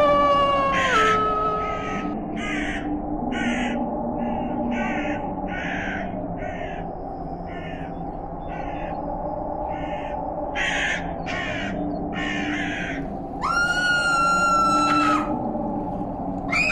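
Crows cawing, a string of short harsh caws about two a second, with a longer drawn-out call near the end.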